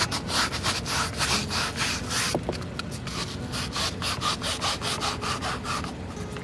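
Rhythmic back-and-forth scrubbing of a car seat, about four strokes a second, easing off near the end.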